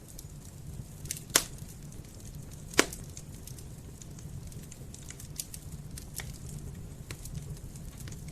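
Wood campfire crackling over a steady low rumble of flames, with scattered small snaps and two loud pops about a second and a half apart.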